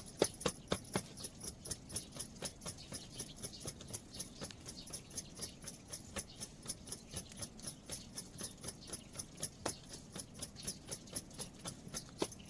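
Rapid, even clicking or tapping, about four strokes a second, louder during the first second, over a faint steady hiss.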